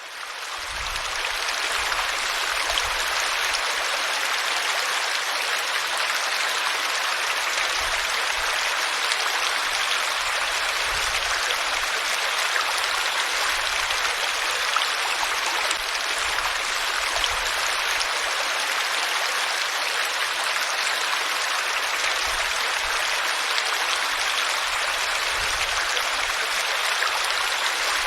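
Steady rush of flowing water, as of a stream, fading in over the first second or two.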